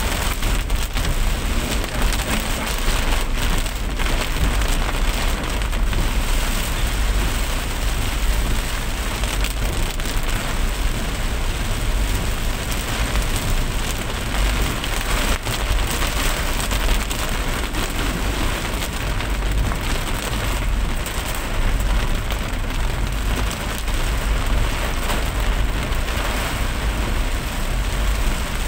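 Steady rain falling on a surface, with a continuous low rumble underneath.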